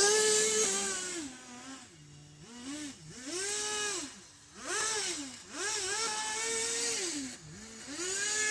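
Kyosho Blizzard's small nitro engine revving up and dropping back about five times in a row, each burst of throttle rising in pitch, holding briefly and falling away.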